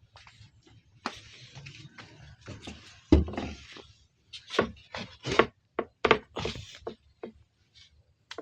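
Goats knocking about in their pen: a run of irregular knocks and thuds, the loudest about three seconds in.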